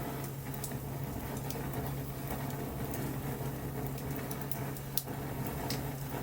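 Wood fire crackling, with scattered sharp pops, the loudest about five seconds in, over a steady low hum.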